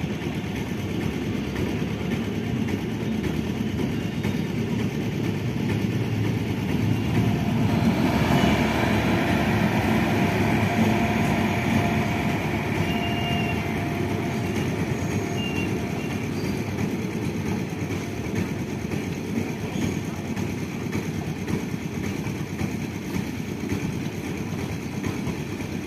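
Indian Railways passenger train passing slowly, its electric locomotive and then its coaches rolling by with a steady rumble of wheels on rails. The rumble swells about eight seconds in, with some thin high tones over it until about sixteen seconds in.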